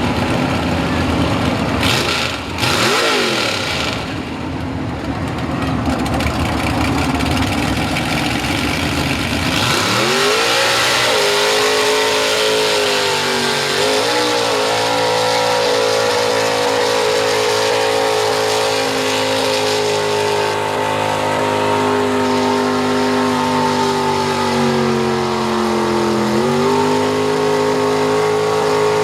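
Big-block 514 V8 of a 1979 Ford Bronco mud truck at full throttle through a mud pit. It runs loud and rough for about ten seconds, then the revs shoot up and hold at a high steady pitch, dipping briefly twice before cutting off at the end.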